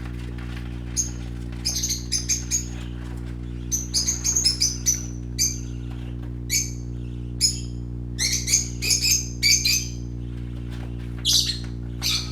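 Young parakeets chirping: many short, high chirps, some single and some in quick runs, busiest in the middle and again shortly before the end. A steady low hum runs underneath.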